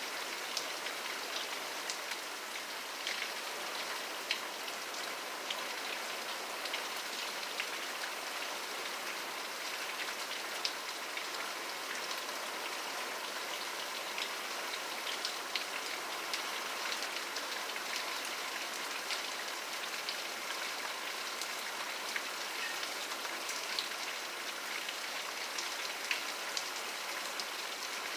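Steady rainfall, a continuous hiss with scattered distinct drop ticks hitting a surface.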